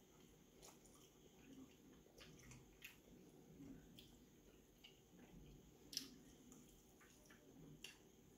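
Faint wet chewing and lip-smacking of a person eating saucy barbecue chicken wings, with scattered small clicks, the loudest about six seconds in.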